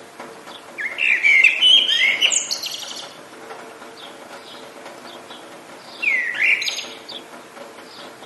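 A songbird singing two loud, quick warbling phrases, one about a second in lasting some two seconds and a shorter one about six seconds in, with fainter chirps between, over a steady hiss of rain.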